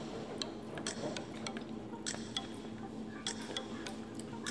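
Eating sounds: wet chewing and lip smacks as chicken is eaten by hand, with irregular sharp mouth clicks a few times a second over a faint steady hum.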